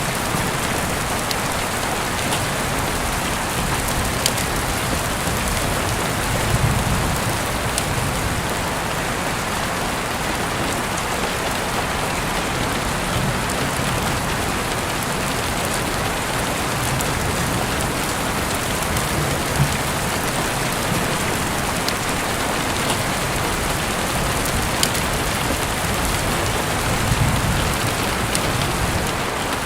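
Heavy rain falling steadily, an even dense hiss with scattered sharper drop ticks and a few low swells.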